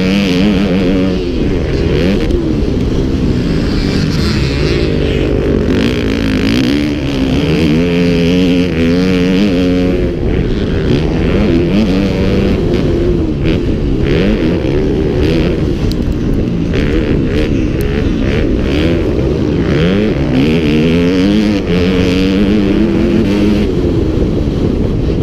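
Motocross bike engine revving hard and backing off over and over, its pitch climbing and dropping as the throttle is worked.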